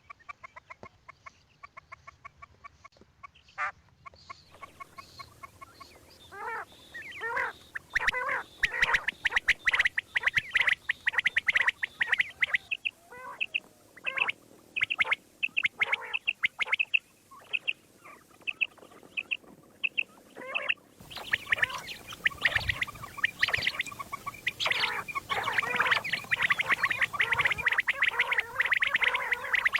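Common quail calling over and over in short, quick calls, first sparse and ticking, then dense and overlapping. The background changes abruptly about 4, 13 and 21 seconds in, as from spliced recordings.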